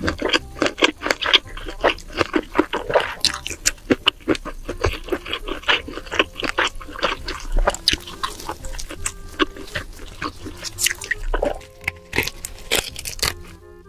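Close-miked wet chewing and lip-smacking, a rapid irregular run of small smacks and squelches as a mouthful of food is chewed with the lips closed.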